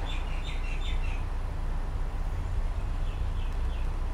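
Birds chirping in short bursts, in the first second and again near the end, over a steady low rumble of background noise.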